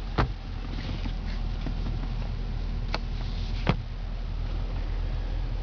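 Steady low hum inside the cabin of the idling 2011 Cadillac CTS-V coupe with the heater running, broken by three sharp clicks: one just after the start, then two about three and three and a half seconds in.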